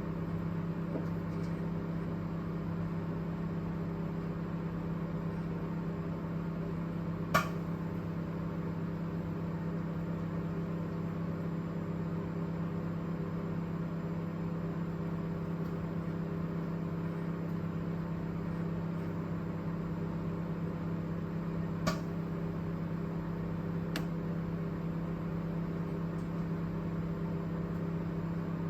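Microwave oven running with a steady hum, broken by a sharp snapping click about a quarter of the way in and two more near the end. The clicks are the abnormal noise that comes and goes and does not happen every time the oven runs.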